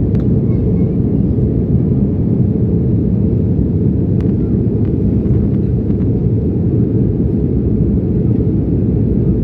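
Steady low rumbling roar of a jet airliner's cabin in flight, engine and airflow noise heard from inside the cabin, with a couple of faint ticks about halfway through.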